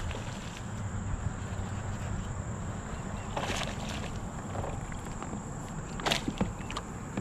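Water and wind noise around a kayak on a creek: a steady low rumble with two brief louder swishes, about three and a half and six seconds in.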